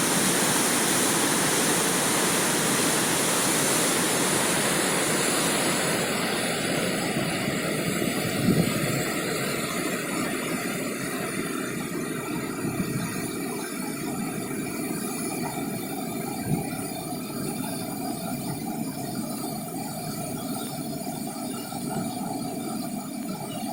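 Steady rushing of water. After about six seconds several steady tones sound over it.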